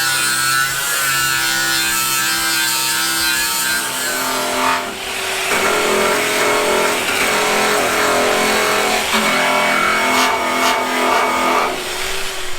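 A power tool running on sheet metal with a steady pitched whine. Its note shifts about five seconds in and again later, and it cuts out shortly before the end.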